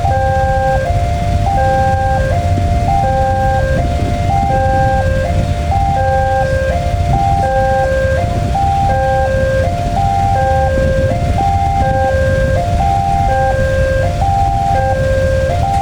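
Electronic warning chime of an Indonesian railway level crossing, repeating a short stepped figure of clear tones about every one and a half seconds over a steady low rumble.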